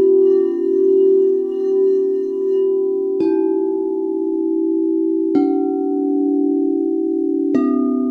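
Singing bowls ringing with a steady sustained hum, struck three times about two seconds apart, each strike adding a fresh ringing tone.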